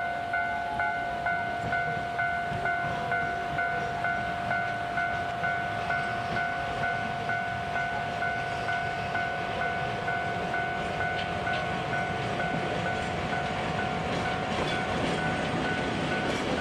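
Sagano Scenic Railway trolley train running, with an electronic warning bell ringing about three times a second over it. The bell fades out near the end.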